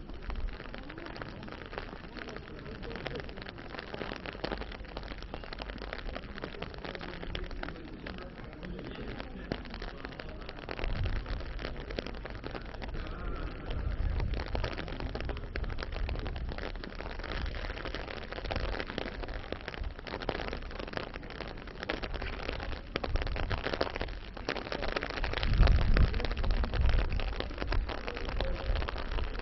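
Steady patter of rain, a dense crackle of fine drops, with a few louder low rumbles, the biggest near the end.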